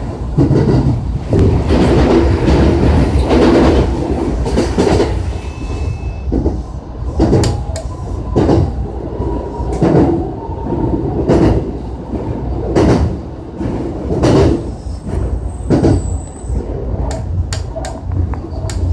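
Electric commuter train running at speed, heard from inside the front car: a steady rumble of wheels on steel rails, with a sharp clack from the rail joints about every one and a half seconds.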